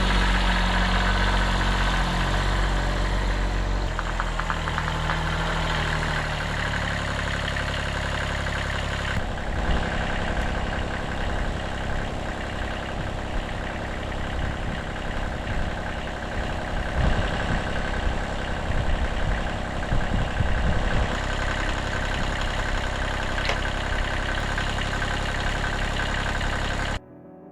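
1978 Kubota B6100's 14 HP diesel engine running steadily, its note shifting about four seconds in and again about nine seconds in. It cuts off abruptly just before the end.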